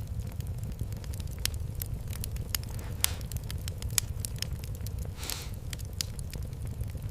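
Fireplace fire crackling, with scattered sharp pops over a steady low rumble. A brief hiss comes about five seconds in, with a fainter one a couple of seconds earlier.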